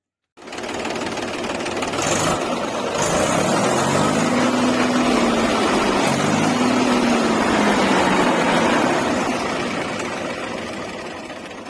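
Tractor engine with its stock silencer fitted, running and revved up twice, the pitch rising and falling each time, then easing off toward the end. It comes in suddenly from silence.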